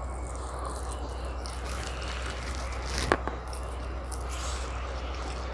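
Close-miked chewing and wet mouth sounds of someone eating chicken biryani and tandoori, with one sharp click about three seconds in, over a steady low hum.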